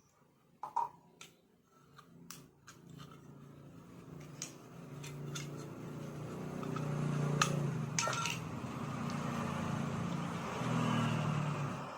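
A few sharp clicks, then a machine running with a low hum that builds up, holds, and eases off near the end.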